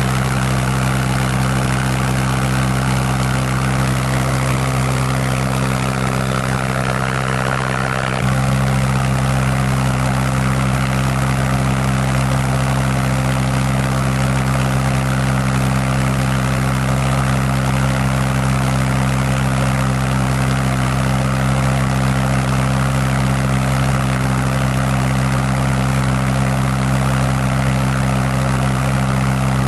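Pulse jet engine running with a steady, loud, pitched drone. About eight seconds in its tone shifts and it gets slightly louder, then runs evenly on.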